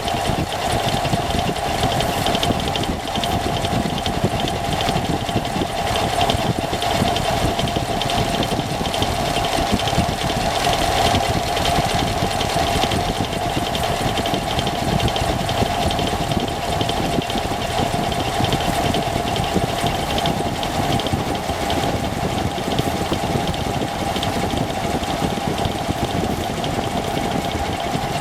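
Engine running steadily with a rapid, even ticking or knocking and a constant mid-pitched whine, unchanged throughout.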